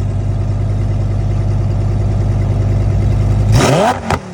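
A car engine running with a steady, deep drone that grows slightly louder. About three and a half seconds in it revs up briefly, then the sound drops away abruptly.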